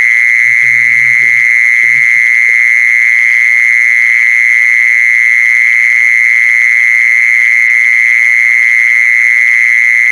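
A jisorn insect calling with one unbroken, steady high-pitched trill. The recording is a lure call for drawing in the insects. There are a few brief faint low noises about half a second and two seconds in.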